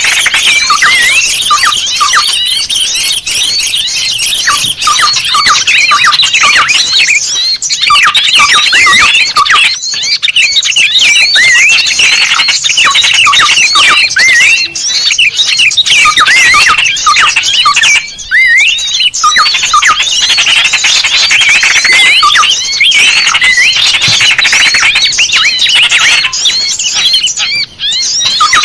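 Loud, dense chirping and squeaky calls of many small birds, a bird-lure recording made to draw small birds in. Short quick notes sweeping up and down overlap almost without a break.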